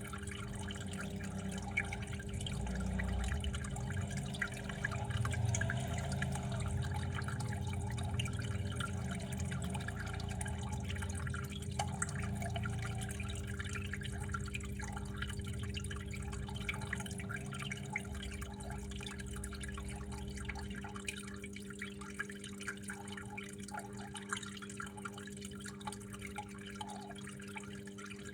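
Water flowing and dripping, with many small drips and splashes over a steady low hum.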